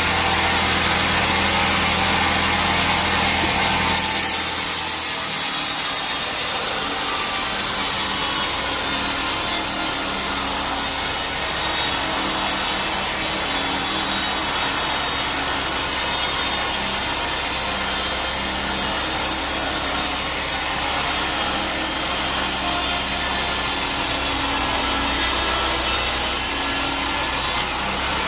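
A sawmill band saw running, then from about four seconds in its blade cuts steadily through a teak log, a dense rasping that stops just before the end as the machine goes back to running without a cut.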